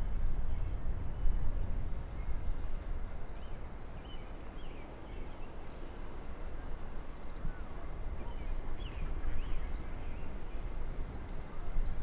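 Small birds singing: scattered short chirps and a high, fast trill repeated about every four seconds, over a steady low rumble.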